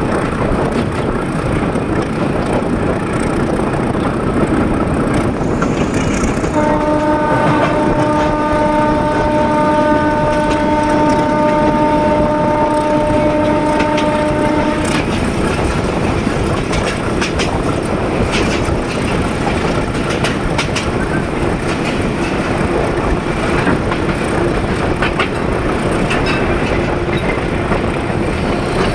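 A train running on the rails, a steady rumble with scattered clicks of the wheels over rail joints. About a quarter of the way in, the locomotive horn sounds one long blast of about eight seconds, then cuts off.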